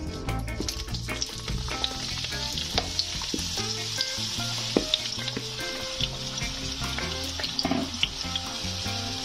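Vegetables frying in hot vegetable oil in a pan: a steady sizzle with scattered sharp crackles and pops.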